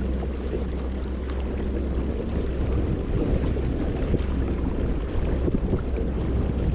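Kayak under way across the water, with wind buffeting the microphone over a steady low hum.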